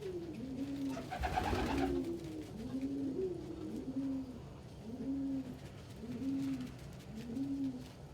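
Domestic pigeons cooing, a run of low, arching coos about one a second, with a brief rustle about a second in.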